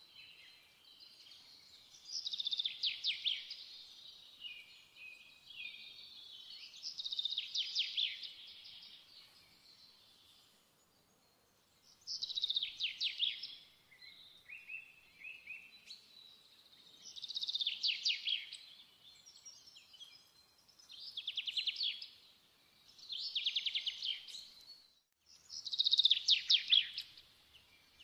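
A small songbird singing in short trilling phrases, about one every three to four seconds.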